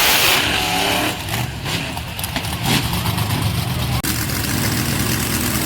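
Monster truck engine running loudly and revving, its pitch rising and falling.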